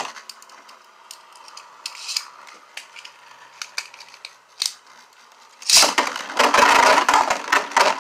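Two Beyblade tops spinning in a plastic stadium: a faint steady whir with scattered sharp clicks as they touch, then from about six seconds in a loud, dense rattling clatter as they clash repeatedly.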